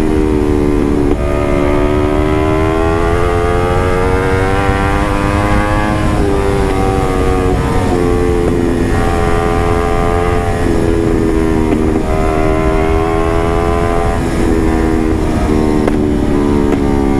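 Motorcycle with an aftermarket carbon exhaust running under throttle. The engine note climbs, then drops abruptly several times.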